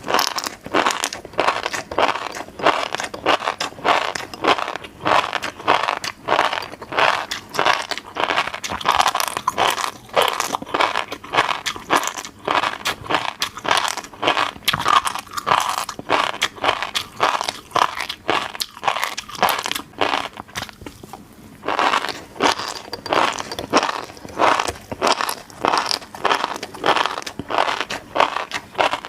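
Close-miked eating of fish roe: many quick pops and clicks as the roe beads burst while being chewed, with a brief pause a little after two-thirds of the way through.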